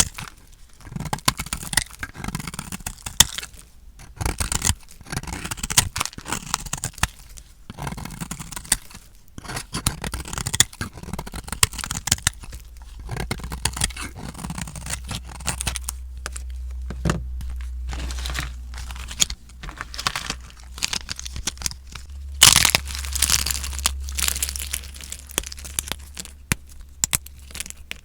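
Dry soap being cut with a blade: dense, irregular crackling and crunching as it crumbles, with a louder burst of crunching about three-quarters of the way through.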